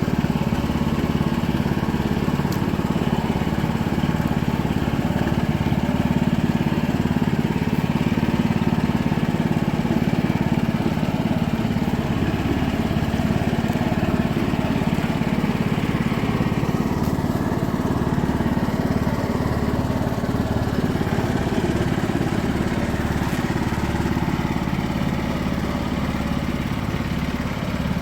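Small engine of a self-propelled boat trailer running steadily under way.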